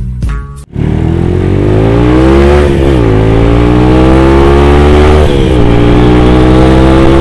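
Yamaha Jupiter Z underbone's four-stroke single, bored out to 180cc, pulling hard through the gears: the engine pitch climbs, drops at an upshift about two and a half seconds in, climbs again, drops at a second upshift about five seconds in, then climbs once more. A snatch of music cuts off just before the engine comes in.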